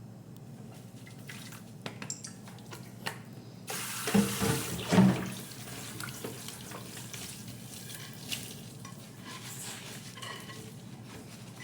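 Tap water running into a kitchen sink, turned on about four seconds in, with a couple of loud knocks as it starts. Light clicks and clinks of dishes come before it.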